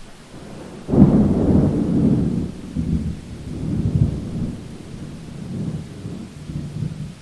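A thunderclap breaks out suddenly about a second in over steady rain. It rolls on as a low rumble in several swells and dies away near the end.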